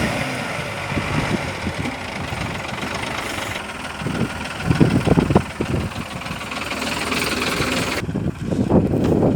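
Diesel engine of a Tata LPT 2515 cargo truck running at idle, with a rough knocking beat and louder low rumbling surges twice.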